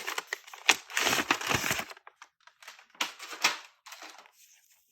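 Paper packaging being handled and opened, rustling and crinkling with sharp crackles, busiest in the first two seconds and thinning out after.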